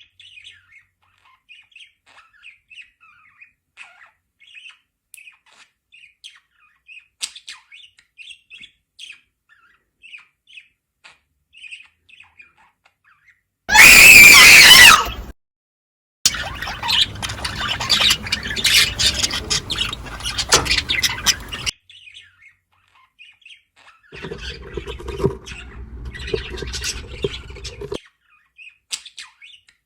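Budgerigars chirping softly and scattered, with one very loud squawk about halfway through, followed by two long stretches of louder, noisy close-up chatter.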